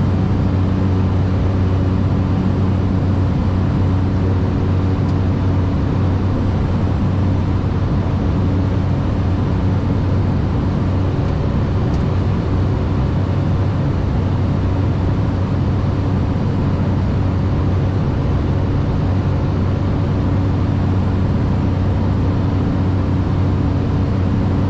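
Cessna Caravan 208B's Pratt & Whitney PT6A turboprop engine and propeller at takeoff power in the initial climb, heard as a steady, unbroken drone with a strong low hum.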